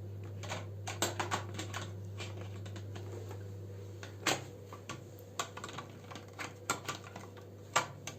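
Plastic parts of a Play-Doh toy set clicking and tapping irregularly as they are handled and snapped together. There is a louder click about four seconds in and a cluster of taps near the end.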